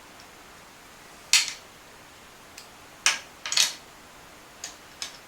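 Metal hand tools clinking against each other and the quad's fittings: a few sharp, separate clanks, the loudest about a second in and two more close together around three seconds in.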